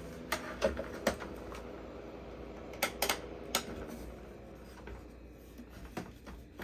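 Irregular sharp clicks and light knocks from hands handling equipment, a dozen or so spread unevenly, over a steady low hum.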